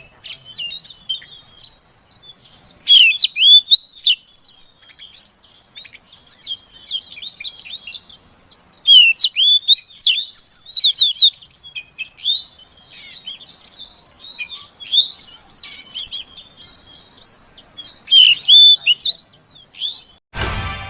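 Female oriental magpie-robin (kacer) calling: bouts of short, high, curving whistled and chattering notes, loudest in a few clusters. A brief burst of noise cuts in near the end.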